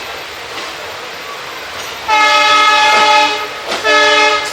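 Train horn sounding two blasts, a longer one of about a second and a half and then a short one, over the steady running noise of the moving train.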